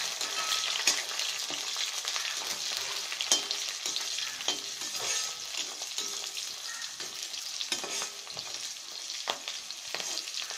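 Chopped onions and green chillies sizzling in hot oil in a metal kadai, stirred with a flat metal spatula that scrapes and clicks against the pan.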